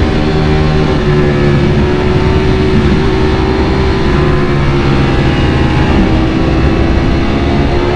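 Ducati Panigale V4 engine running at steady high revs under way, with a dense rushing noise beneath it. Its pitch sags slightly about five seconds in and then climbs back.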